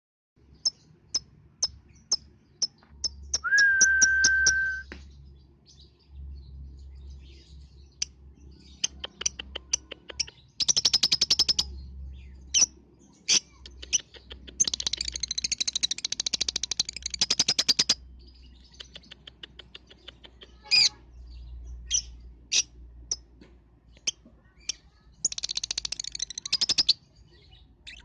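Lovebirds chirping, with three long rapid chattering trills between sharp single chirps: the kind of lovebird song used as a 'pancingan' to coax young lovebirds into singing. A short steady whistle-like tone sounds about three and a half seconds in.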